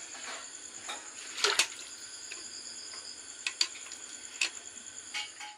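Crickets trilling steadily in the background, with a handful of sharp knocks and clicks scattered through, the loudest about a second and a half in.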